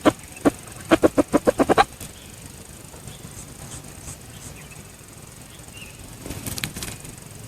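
Red junglefowl clucking: two single clucks, then a quick run of about seven clucks about a second in. A brief rustling noise comes near the end.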